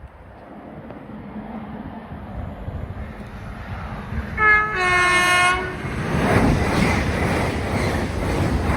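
A train sounds a two-tone horn, a short note then a longer one, as it approaches, then rushes past with a loud rumble and clatter of wheels on rail.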